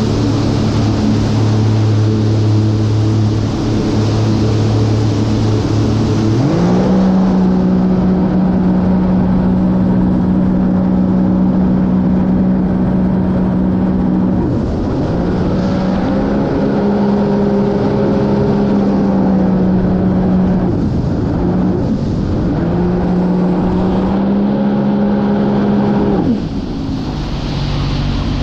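Sea-Doo GTR230 jet ski's supercharged three-cylinder engine running on the water: it holds a low steady pitch, then speeds up about a quarter of the way in and stays at higher revs, backs off and surges back up twice, and drops off near the end. Water and wind rush run underneath.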